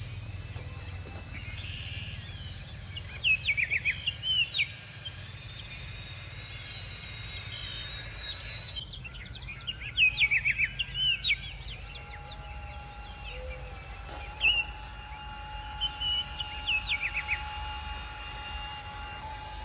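Birds chirping in four short bursts of rapid, sharp high calls over a steady low outdoor rumble.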